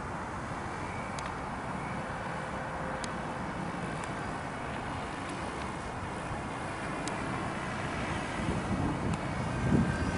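Steady wind rumble on the microphone with the faint hum of a large drone's motors, growing a little louder near the end.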